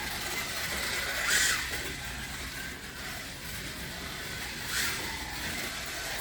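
Scratch-built brass-chassis 1/24 scale slot car's electric motor whining as it laps the track, swelling louder as it passes close about a second and a half in and again near five seconds.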